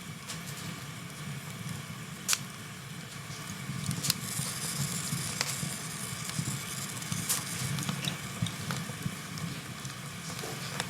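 Wood fire burning in a fireplace: a steady low rumble of flames with sharp crackles and pops every second or two, the loudest about two seconds in.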